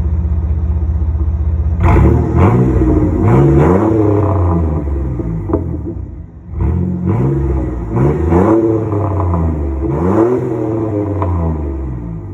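Chevy Blazer ZR2's 4.3-litre V6 breathing through Flowmaster Super 10 mufflers and dual 4-inch tips: a steady idle, then from about two seconds in the engine is revved again and again, the pitch rising and falling with each blip, with a short lull about six seconds in.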